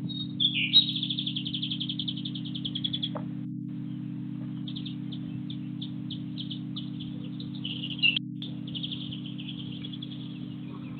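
Small garden songbirds chirping, with a fast, high trill lasting about two seconds near the start and a run of short chirps and another trill later, over a steady low hum.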